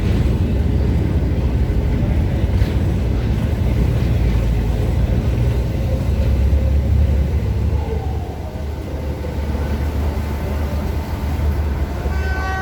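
Strong wind buffeting the microphone aboard a moving boat: a loud, ragged low rumble that eases slightly about two-thirds of the way through. Near the end a short steady tone begins.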